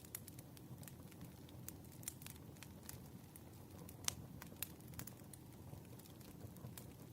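Wood fire burning: a soft low rumble with irregular crackles and pops, the sharpest pop about four seconds in.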